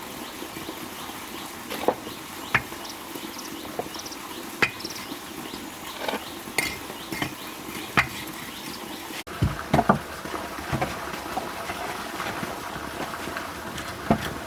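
Irregular sharp clinks and taps of hard objects knocking together, one every second or two, over a steady low hiss. The background changes abruptly about nine seconds in, after which the knocks come closer together.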